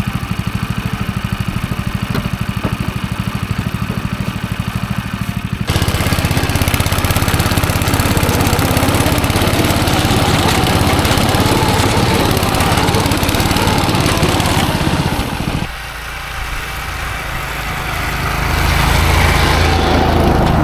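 Small gasoline engine running under changing throttle: it gets louder about six seconds in, eases off around sixteen seconds and climbs again near the end.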